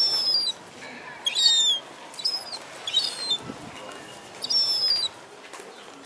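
Birds giving short, shrill, high-pitched calls: five bursts of under half a second each, over a low steady background.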